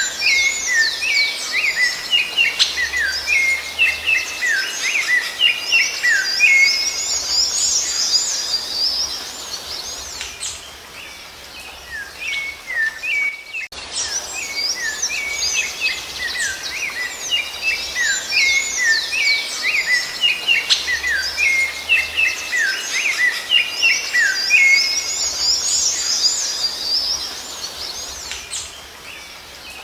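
Rufous-bellied thrush (sabiá-laranjeira) singing: dense runs of quick, bright whistled and chirping notes. The same stretch of song repeats about every 14 seconds, a looped recording.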